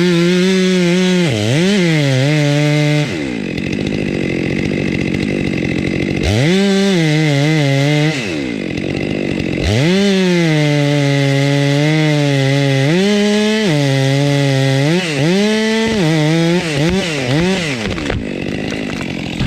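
Chainsaw running at high revs, its engine note dipping and recovering again and again as it works. There are two longer, rougher stretches where the clean note gives way to a noisy rasp.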